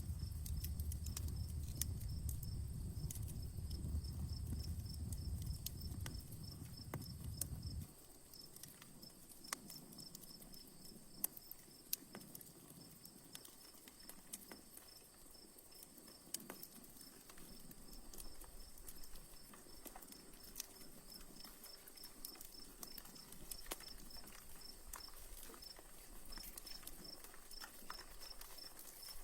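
Campfire crackling with scattered sharp pops, over the steady, evenly repeating chirp of a cricket. A low rumble underneath cuts off abruptly about eight seconds in.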